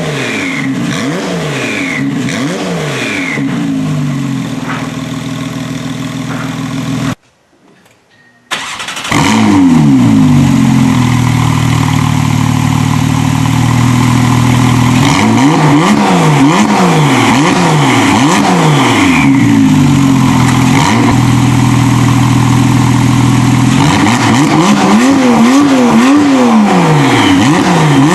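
Porsche 991.2 911 flat-six engine revved through its exhaust: runs of quick throttle blips, each rising and falling in pitch about once a second, alternate with stretches held at a steady rev. About seven seconds in it breaks off for a second and comes back louder.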